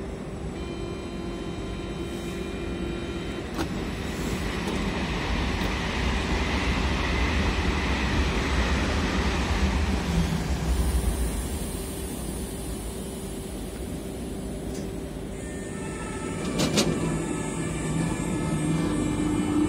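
Electric passenger train departing: its rolling noise swells for several seconds and then eases, with the traction motors' steady whining tones, strongest near the end, and a sharp click about 17 seconds in.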